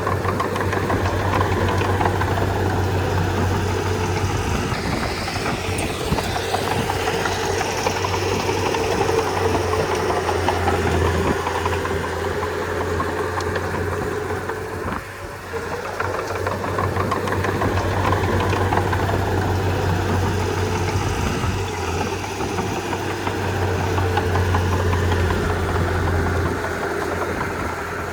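Komatsu D31P crawler bulldozer's diesel engine running steadily while the machine works, with a brief drop in level about halfway through.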